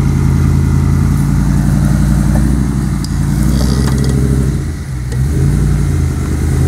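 Range Rover P38's 4.6-litre V8 with a custom exhaust, running under load as the truck crawls through deep mud. The engine note eases off about four and a half seconds in, then picks up again.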